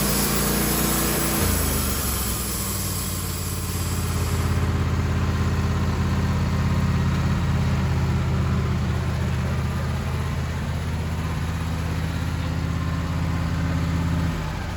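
Sawmill engine dropping from working speed to idle about two seconds in, then idling steadily as the cut is finished, and shutting down near the end. A high hiss dies away about four seconds in.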